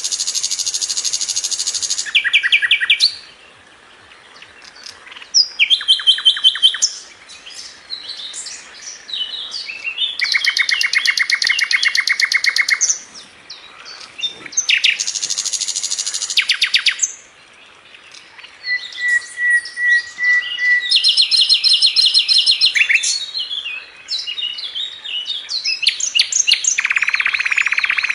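A sikatan londo flycatcher singing continuously in fast, tight phrases. It mixes rapid trills of repeated notes, buzzy rattles and high twittering notes, with brief pauses between phrases.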